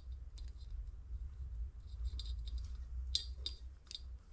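Small, irregular metallic clicks and ticks of a timing chain master link and its clip being worked off by hand, bunching into a quick run of clicks near the end, over a steady low hum.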